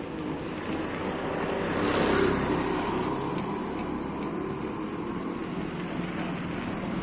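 Yamaha RX135's two-stroke single-cylinder engine running through its exhaust with the dB killer (silencer baffle) removed, giving an open, unbaffled note. It gets briefly louder about two seconds in, then settles back to a steady run.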